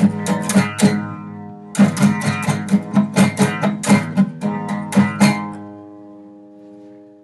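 Guitar music: rhythmic strumming with a short break about a second in, then a final chord left ringing and fading out near the end.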